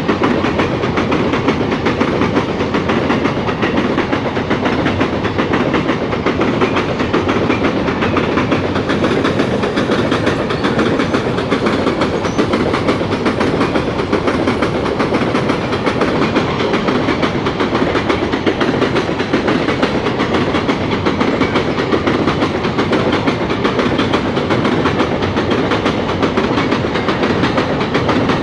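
Freight train wagons rolling past at steady speed, the wheels clattering continuously over the rails.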